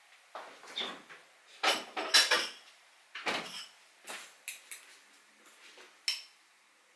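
Kitchen handling sounds: a series of short clatters and knocks of dishes and utensils, the loudest cluster about two seconds in and another about three seconds in, then smaller taps and one last sharp knock near the end.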